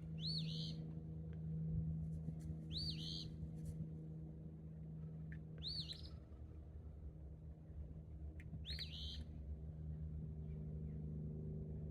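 A small songbird singing a short phrase of quick, high, arched notes four times, about every three seconds, over a steady low hum.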